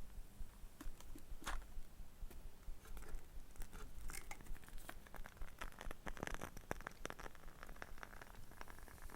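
Small wooden items handled close to the microphone: a quick, irregular run of light clicks, taps and scratches, busiest in the middle.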